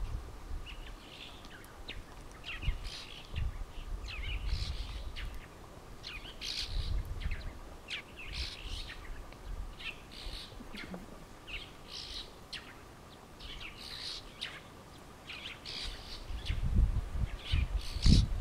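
Small birds chirping over and over, short high calls coming a few at a time. Beneath them a faint steady hum, with low rumbles near the end.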